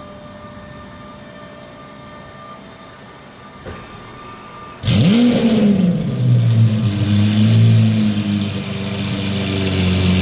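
Lamborghini Aventador SV's straight-piped 6.5-litre V12 starting up about five seconds in: a sudden, loud flare of revs that quickly drops back and settles into a steady idle. Before it, only a quieter steady hum.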